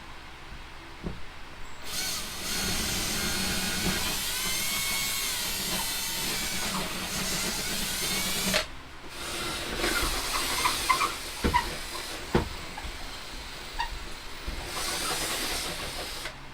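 Power drill running for about six seconds with its pitch rising and falling as the speed changes, then a few shorter runs and a couple of knocks.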